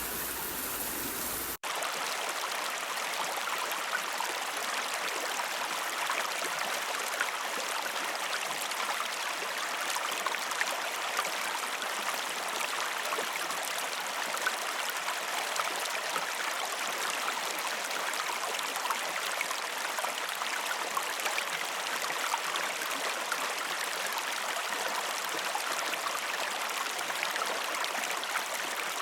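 Waterfall: a steady rush of falling water with many small splashes. About a second and a half in, the sound drops out for an instant and then carries on without its low rumble.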